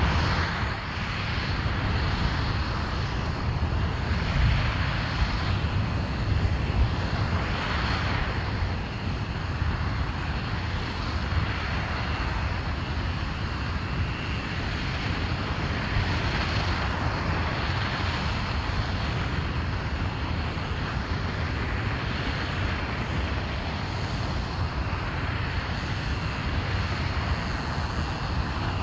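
RS-25 liquid-hydrogen/liquid-oxygen rocket engine firing on a test stand, a continuous deep roar with small swells in level.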